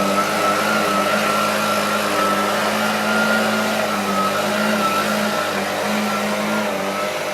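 Handheld leaf blower running steadily at high speed: a low engine hum with a high whine over it, its pitch wavering slightly.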